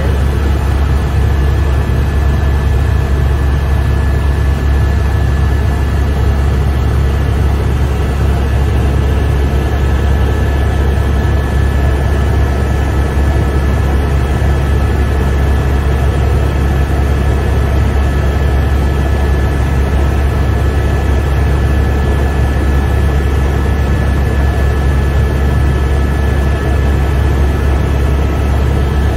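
Helicopter cabin noise in flight: a loud, steady low drone with a constant high whine over it.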